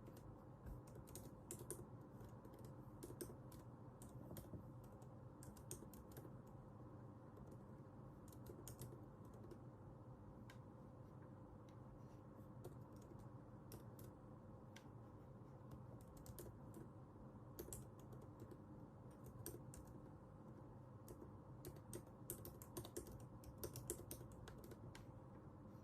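Quiet typing on a computer keyboard: irregular bursts of keystrokes with short pauses between them, over a steady low hum.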